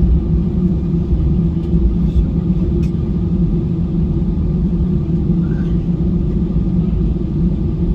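Steady low rumble of airliner cabin noise inside an Airbus A320, engine and airflow noise heard from a window seat.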